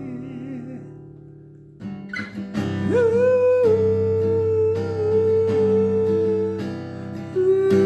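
Music: acoustic guitar strumming under a long held sung note that slides up into pitch about three seconds in. A fresh note starts near the end.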